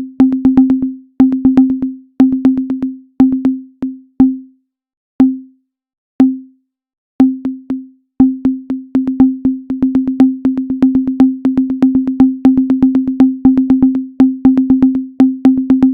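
Minimal electronic music built from short sine-wave tone pulses, each starting with a sharp click and dying away. They come in quick rhythmic runs that thin to single isolated pulses about five and six seconds in, then pick up again densely.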